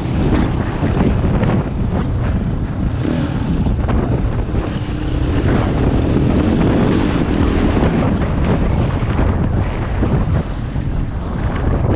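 Heavy wind buffeting on the microphone of a moving motorcycle, with the KTM 500 EXC's single-cylinder four-stroke engine running underneath, its pitch showing faintly about midway.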